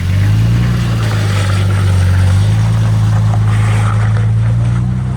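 A four-wheel-drive vehicle's engine running steadily under load, its note stepping up right at the start, with a hiss of road or water noise over it.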